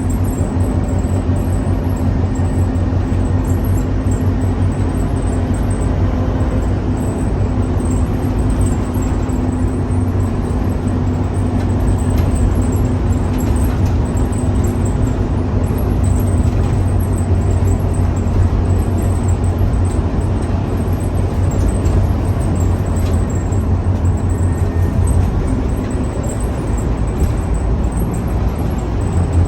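Scania K310UA city bus running with a steady low engine drone; a fainter higher tone in it fades out about eight seconds in.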